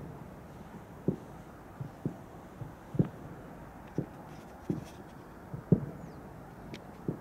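Aerial fireworks shells bursting far off: a series of dull, low thumps, about ten in seven seconds, unevenly spaced.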